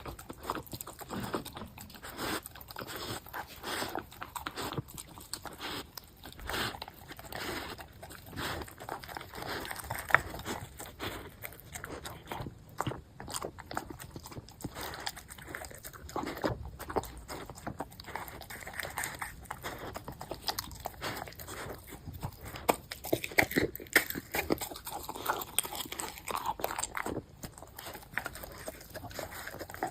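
Golden retriever crunching and chewing food: a continuous, irregular run of crunchy bites.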